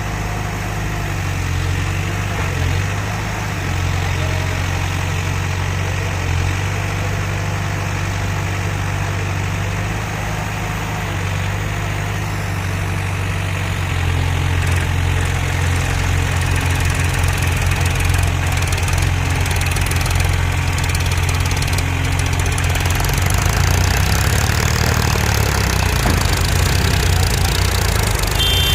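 Heavy diesel engine running steadily with a low drone, getting louder about halfway through and again a few seconds later.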